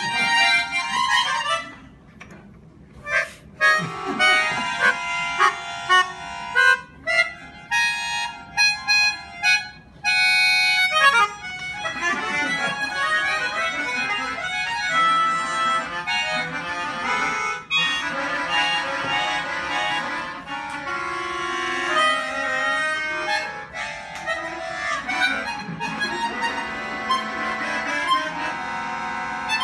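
Live instrumental music led by a reedy free-reed instrument. For the first ten seconds or so it plays short, detached notes and phrases with gaps between them, then settles into fuller, sustained chords.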